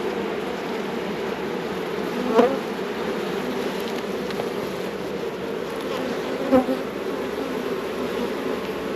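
Honey bees from an opened hive buzzing in a dense, steady hum, the colony disturbed by the hive being worked. Twice, about two and a half and six and a half seconds in, the buzz briefly swells and bends in pitch as a bee passes close.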